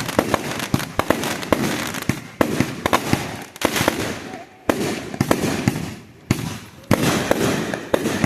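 Fireworks going off in quick, irregular succession: many sharp bangs and pops, several a second, with brief lulls between volleys.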